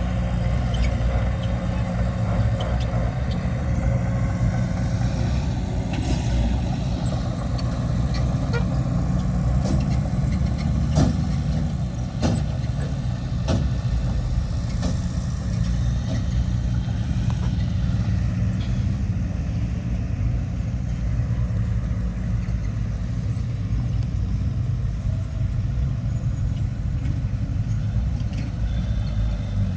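Heavy diesel earthmoving machinery running steadily, with a few sharp metallic clanks in the middle.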